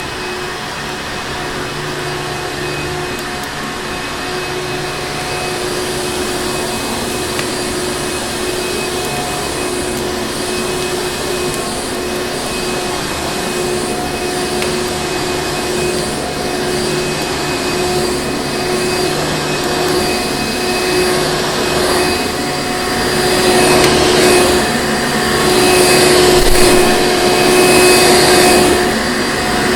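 Vacuum cleaner motor running steadily with a constant whine, growing louder with surging rushes in the last several seconds.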